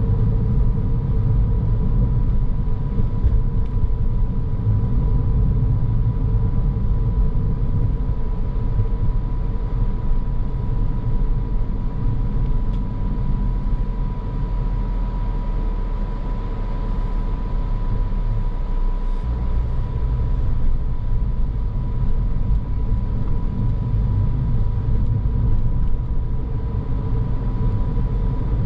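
Car driving along a road: a steady low rumble of tyres and engine, with a faint steady high whine. The rumble shifts slightly about two-thirds of the way through.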